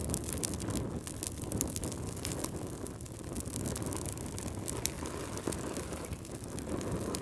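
Wood fire crackling: frequent sharp pops and snaps over a steady low rumble of flames.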